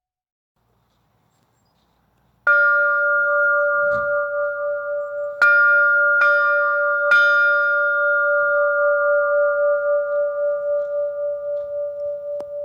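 A bell struck four times, a single stroke and then three closer together, each ringing on and slowly dying away after silence at the start.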